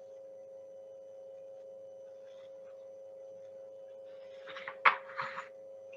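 A steady electrical hum, then near the end a brief paper rustle with a sharp click as a picture-book page is turned.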